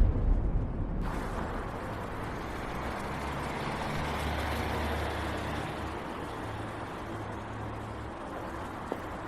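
A motor vehicle's engine running steadily, a low rumble under a hiss of noise, with a few sharp clicks near the end.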